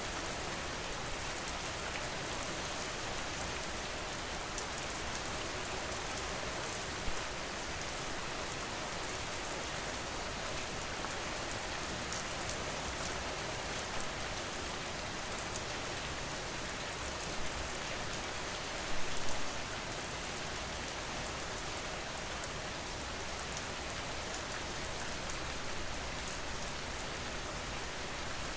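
Steady rain falling, an even hiss of drops pattering on a surface, with a few slightly louder drops now and then, one about seven seconds in and a short cluster around nineteen seconds.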